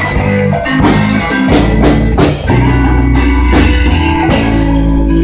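A rock band playing loudly, with a drum kit keeping a steady beat under electric guitar and sustained low bass notes.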